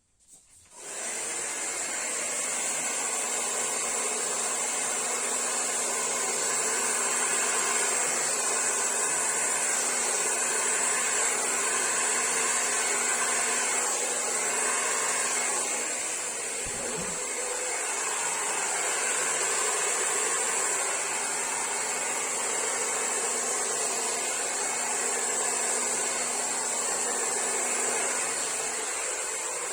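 Hair dryer switched on about a second in, then running steadily with a constant airy whoosh, a high hiss and a low motor hum.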